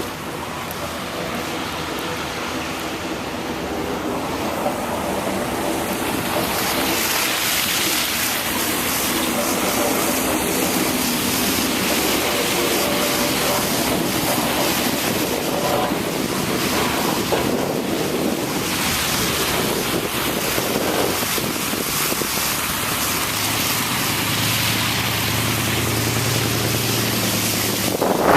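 Blizzard wind rushing and buffeting the microphone, building over the first few seconds and then holding steady, with a faint low hum near the end.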